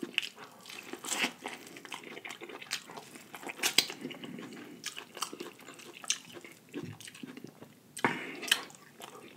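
Chewing sauce-coated corn on the cob: crunches and smacking mouth sounds at irregular moments.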